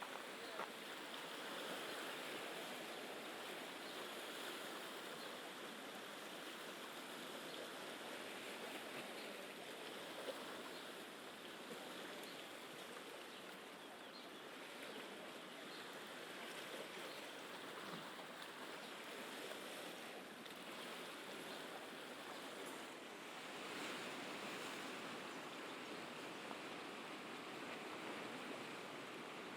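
Sea waves washing steadily on the shore, with a couple of faint clicks.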